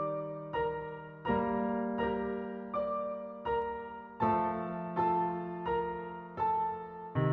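Slow piano music: single melody notes struck about every 0.7 seconds over low held bass notes that change every couple of seconds.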